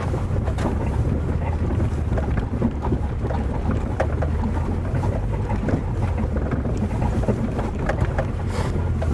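Subaru Forester's flat-four engine running steadily as the car drives over rough, muddy off-road ground, with frequent small knocks and rattles.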